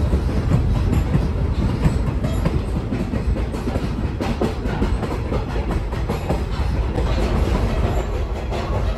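Former Union Pacific caboose rolling along the track, heard from inside: a steady low rumble with irregular clicks and clanks from the steel wheels on the rails. A steady low hum comes in near the end.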